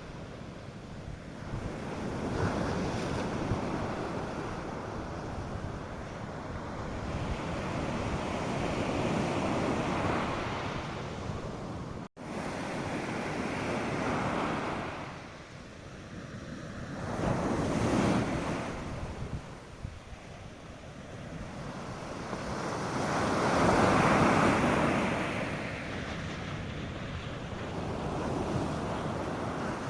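North Sea surf: waves breaking and washing up the beach, swelling and falling away every few seconds, with wind on the microphone.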